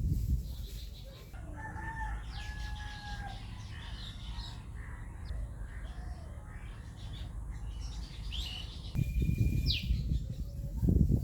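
A rooster crowing in drawn-out calls, with small birds chirping high in the background. A low rumble comes in near the end.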